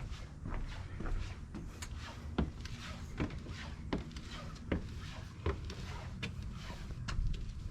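Footsteps at a steady walking pace on a wooden boardwalk, each step a distinct hollow knock, a little over one step a second.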